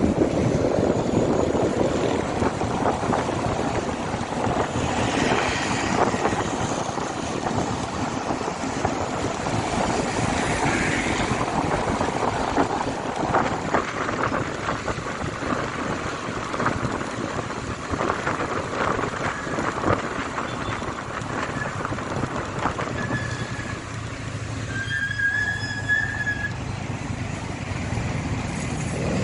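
Motorcycle riding along a road: steady wind rush, engine and tyre noise, with a short high beep with a couple of overtones near the end.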